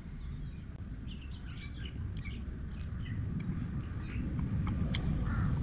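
Small birds chirping in short, scattered calls over a steady low rumble, with a couple of sharp clicks near the end.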